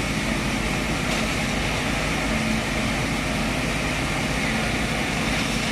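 A heavy engine running steadily: an even hum with a hiss over it that does not change.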